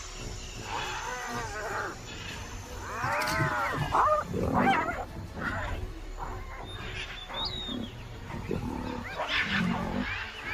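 Lions and hyenas calling in a fight. Several high, arching, pitched cries come from the hyenas, and lower, louder lion calls come about four to five seconds in and again near the end.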